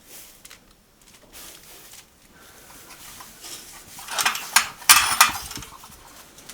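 Kitchenware clattering: dishes and utensils clinking and scraping, with a louder cluster of clatter from about four to five and a half seconds in.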